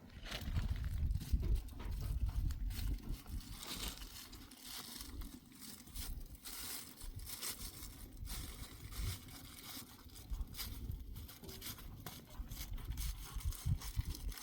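Irregular crackling and rustling over an uneven low rumble.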